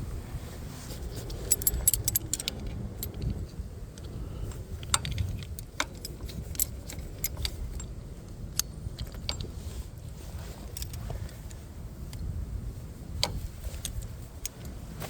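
Light metallic clicks and jingling, scattered irregularly and bunched about two seconds in, over a low steady rumble.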